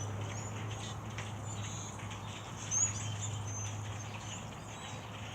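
A flock of birds chirping, with many short high calls scattered through, over a steady low hum.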